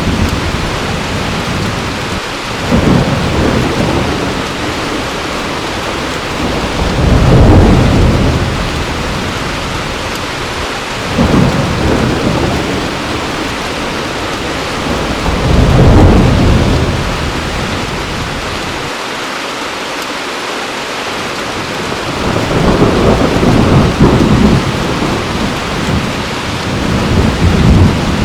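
Heavy rain falling in a steady hiss, with low rolls of thunder swelling and fading again and again, about every four to five seconds.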